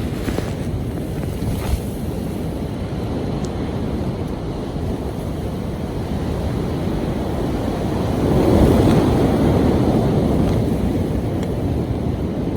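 Strong wind buffeting the microphone, a steady rushing noise that builds to a stronger gust about eight seconds in and then eases.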